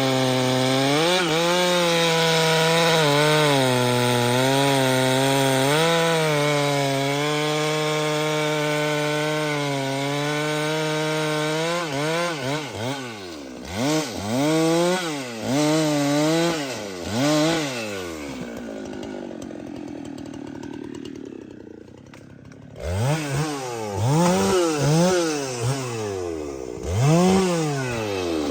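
Chainsaw cutting wood at steady high revs for about twelve seconds, then revved up and down in short bursts. It drops back to a low idle for a few seconds before more quick throttle blips near the end.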